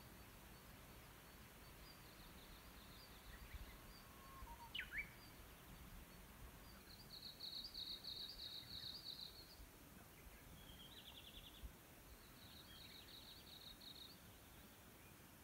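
Faint wild birdsong: several high, rapid trills, the loudest about seven to nine seconds in, and one quick sweeping whistle about five seconds in, over quiet background noise.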